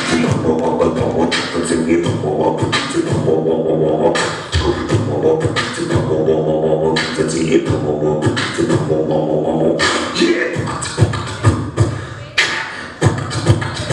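Human beatboxing: sharp vocal drum hits in a rhythm over held, hummed pitched notes.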